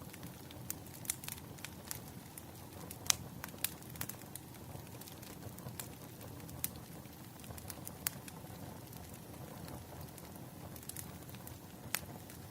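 Wood fire crackling: irregular sharp pops and snaps, a few louder ones about three seconds in and near the end, over a steady low rumble.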